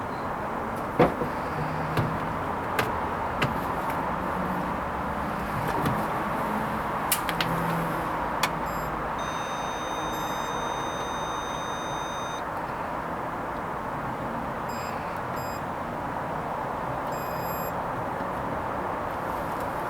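Hoover Vision HVP16 washing machine at the end of its Silks programme: a steady mechanical hum with occasional clicks, and an electronic beep held for about three seconds near the middle, followed by a few short beeps.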